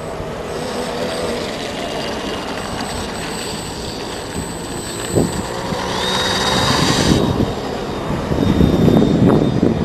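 Electric motor and propeller of a radio-controlled Extra 330 model airplane whining in flight, a high thin tone over a rushing noise. The high whine drops away sharply about seven seconds in, while a louder low rumble swells near the end.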